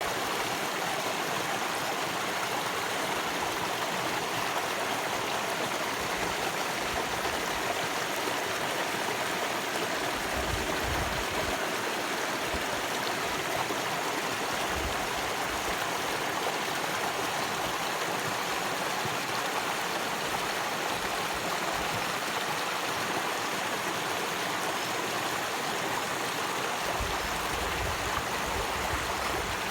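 Stream water flowing and splashing steadily over its bed. A few brief low rumbles come in around ten seconds in and again near the end.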